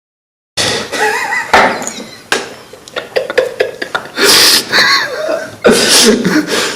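A person's gasps, breaths and short non-word voiced sounds, in irregular bursts, after half a second of dead silence.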